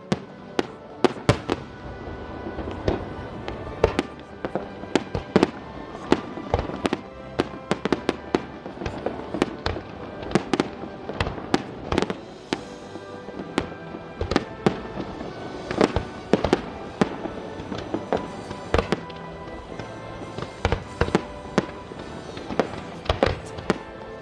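Fireworks display going off in a dense, irregular run of sharp bangs, often several a second, with music playing steadily underneath.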